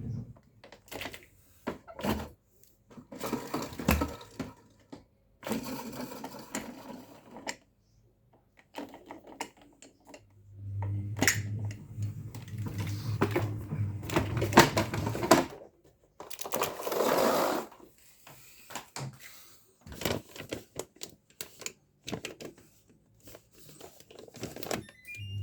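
Clicks, knocks and rattles from the plastic parts of an LG vacuum cleaner being handled, coming in irregular bursts with short pauses. A low hum runs for about five seconds midway.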